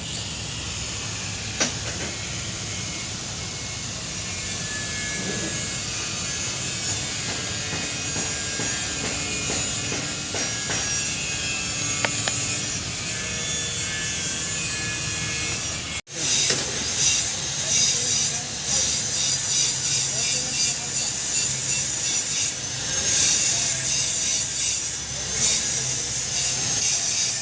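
TIG welding arc hissing steadily. About sixteen seconds in it cuts off sharply, and a louder, choppier scratching hiss with brief breaks takes over.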